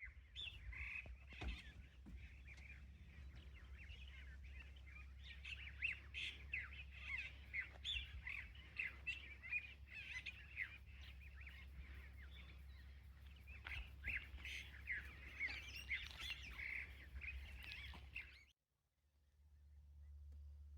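Many birds chirping and chattering at once in a dense, continuous chorus of short calls, over a low steady hum. It cuts off abruptly near the end.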